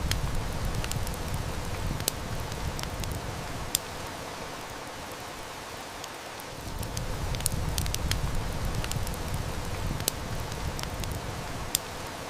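Steady heavy rain hiss mixed with a wood fire's crackle: scattered sharp snaps, a few of them louder pops. A low rumble swells and fades twice, like distant thunder.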